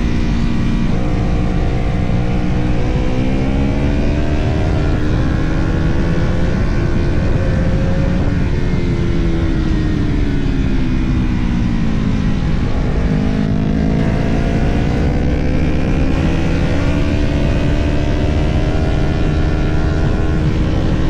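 Sport motorcycle engine under hard riding, heard from the bike-mounted camera with wind rush. It pulls up through the revs with quick gear changes, about a second in and again near five seconds, then winds down while slowing for several seconds, and accelerates again with another shift near the end.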